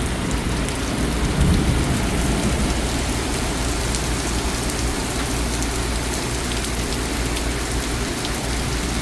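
Heavy rain pouring steadily in a thunderstorm downpour, an even, unbroken hiss of rain hitting the street and nearby surfaces.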